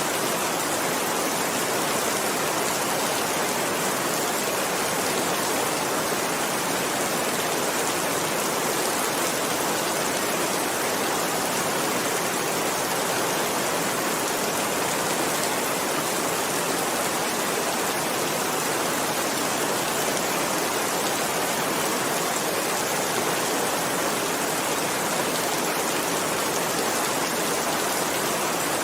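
Heavy rain falling as a steady, even downpour, with no separate drops or thunder standing out.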